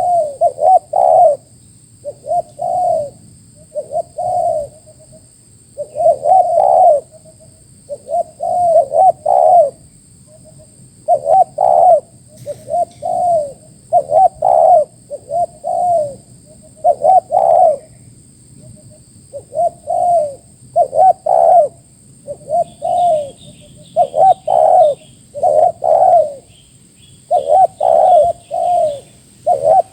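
Spotted dove cooing over and over, in phrases of two or three low coos that repeat every second or two.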